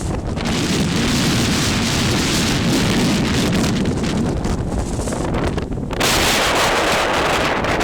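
Strong wind buffeting the microphone with a loud, rushing roar, a stronger gust coming in about six seconds in.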